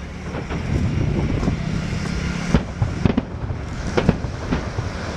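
Fireworks display: aerial shells bursting in a continuous low rumble of booms and crackle, with sharp single bangs standing out about two and a half, three and four seconds in.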